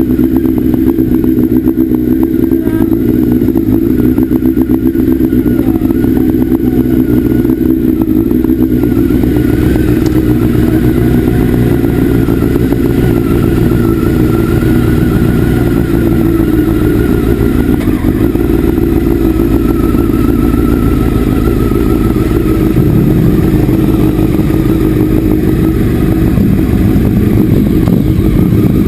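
Motorcycle engine running steadily as it is ridden. It makes a continuous loud drone whose pitch drifts slightly up and down with the throttle.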